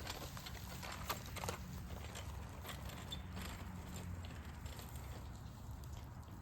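Child's bicycle being ridden over bumpy grass: a steady low rumble with scattered clicks and rattles from the bike jolting over the ground.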